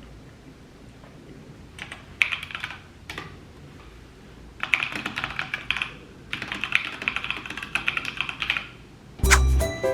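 Typing on a computer keyboard: three bursts of rapid key clicks. Music with a steady beat starts near the end.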